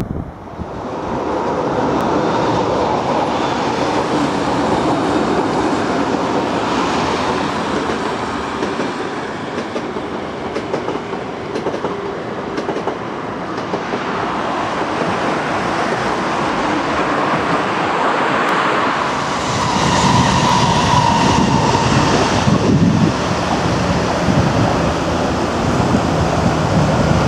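Electric passenger trains running on the rails, wheels clattering over the track. About twenty seconds in the rumble grows heavier and a steady high tone sounds for a couple of seconds.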